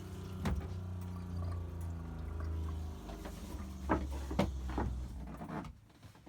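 Boat's pressurized fresh-water pump running with a steady hum as water fills the newly fitted shower lines, with a few sharp knocks, then stopping about a second before the end.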